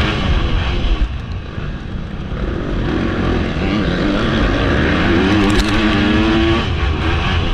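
MX2 motocross bike engine under the rider: it eases off about a second in, then revs up with the pitch climbing steadily for several seconds before dropping near the end.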